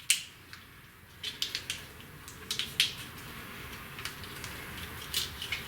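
Scattered light clicks and taps of small parts and tools being handled. There is a sharp click just after the start and a quick run of them between about one and a half and three seconds in.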